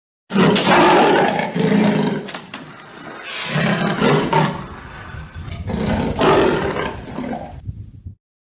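A large animal roaring: several loud, rough calls with quieter gaps between them.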